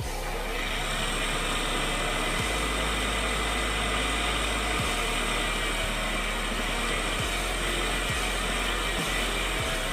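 Kyodo TL 5500 swiftlet-house mist machine running steadily, with freshly replaced bearings.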